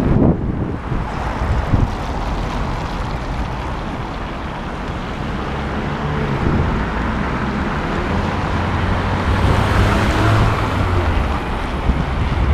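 Wind buffeting the microphone of a camera on a moving bicycle, over the steady noise of street traffic, swelling a little about three quarters of the way through.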